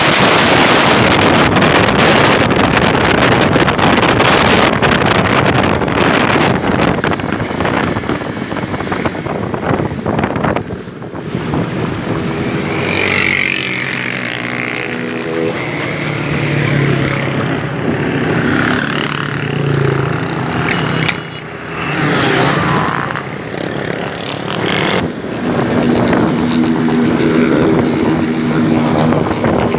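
Heavy wind rush on the microphone while riding a motorcycle. About twelve seconds in it eases, and a motorcycle engine comes through with its note rising and falling, louder again near the end.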